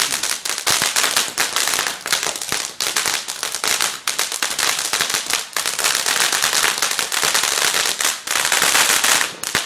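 Firework crackling: a dense, rapid run of small sharp bangs that goes on for about nine seconds and stops suddenly near the end.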